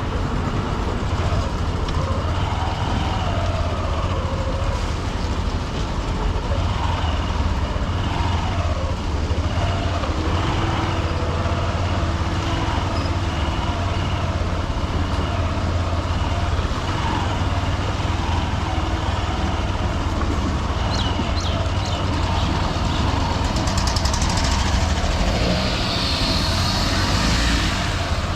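Honda SP125 single-cylinder commuter motorcycle engine running while riding through dense city traffic, with the rumble of surrounding trucks and cars. A louder high hiss rises near the end.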